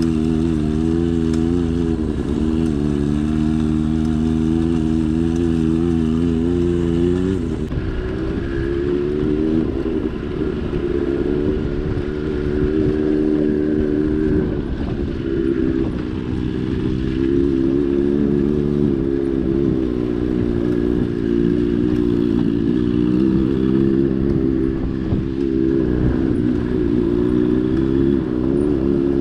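Motorcycle engine running under load as it is ridden uphill, its pitch rising and falling with the throttle and gear changes.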